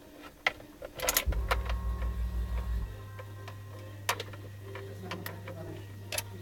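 Sharp, scattered clicks and a low hum lasting about a second and a half, then a faint steady hum, as the BMW E30 is switched on just before its swapped M52B28 engine first starts. The engine has not yet caught.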